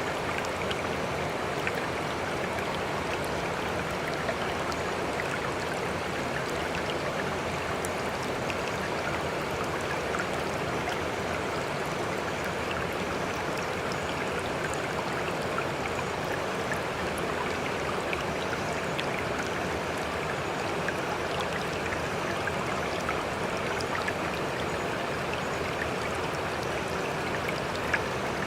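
Sea water washing steadily, an even rushing sound with a few faint ticks of droplets and no separate wave surges.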